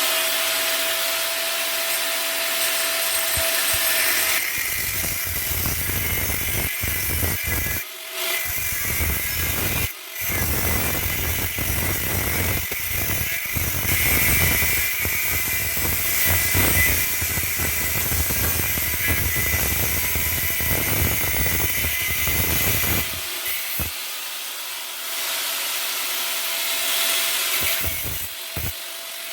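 Power tool working steel plate, running continuously with a couple of brief pauses.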